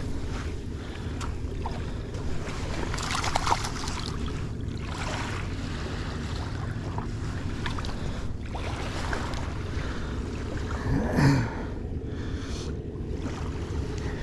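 Steady wind and water noise, with a short, louder burst about eleven seconds in.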